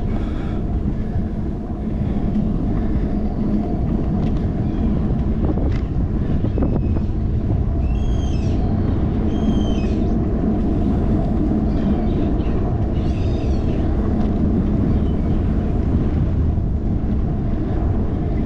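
Wind buffeting a handlebar-mounted action camera's microphone as a bicycle rolls along, a steady low rumble with scattered small rattles. A few short high chirps cut through about eight, nine and a half and thirteen seconds in.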